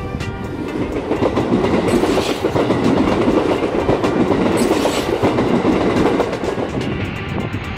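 A train running past on the tracks, growing louder about a second and a half in and easing off near the end, with its wheels clacking over rail joints.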